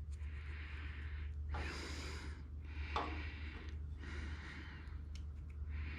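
A man breathing near the microphone, with one long breath about a second and a half in, over a steady low hum and a faint click about three seconds in.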